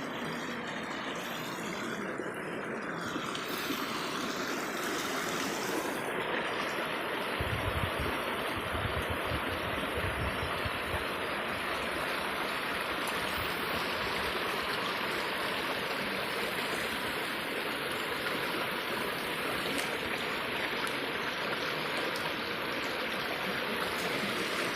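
Stream water rushing steadily, with a low rumble for a few seconds partway through.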